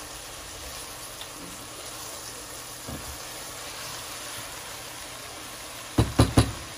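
Ground beef and onions sizzling in a frying pan as they brown, a steady hiss while they are stirred with a silicone spatula. About six seconds in, three quick knocks.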